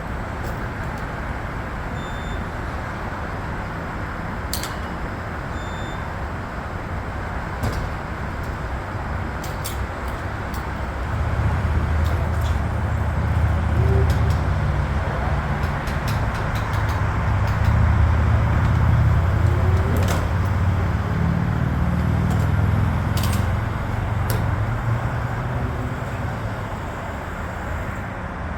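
Jeep Gladiator on the move: steady road noise, with a deeper engine rumble building about eleven seconds in and easing off near the end. Scattered light clicks and rattles.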